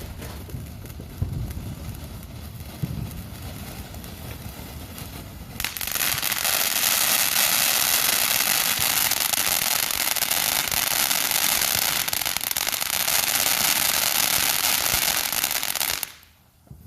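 A consumer firework crackling and hissing densely for about ten seconds, starting suddenly about six seconds in and cutting off abruptly near the end. Before it there are only a few dull low thumps.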